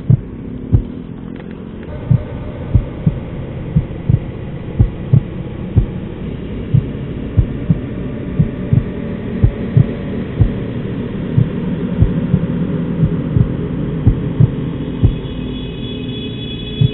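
A small sport motorcycle's engine, heard from the rider's seat, pulls away from a stop about two seconds in and runs at low road speed as a steady hum. Sharp low thuds come over it about every half second and are the loudest sounds.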